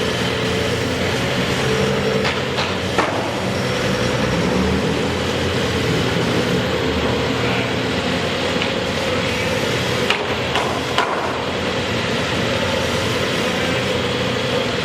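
A steady engine hum of a running motor, with sharp knocks in two clusters of three, a few seconds in and again about two-thirds of the way through.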